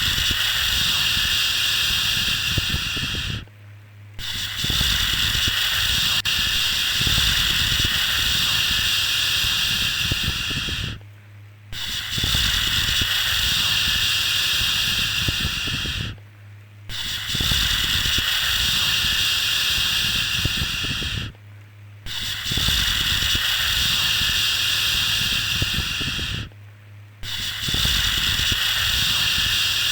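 Long, steady 'shhh' shushing sounds, each held for about four to seven seconds with a short break of under a second between them, six in all. A faint low hum runs underneath throughout.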